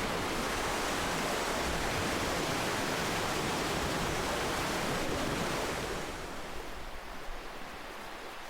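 Ocean surf washing in a steady rush that eases off about six seconds in, as a wave recedes.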